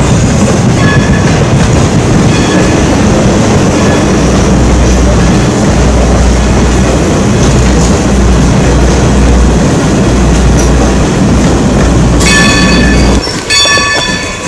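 Wooden passenger coaches rolling past at close range: a loud, steady rumble of wheels on rail with some clatter and squeal. Near the end the rumble gives way abruptly to a pitched tone in short repeated blasts.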